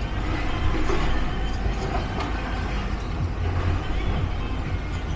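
Steady low mechanical rumble with outdoor street noise.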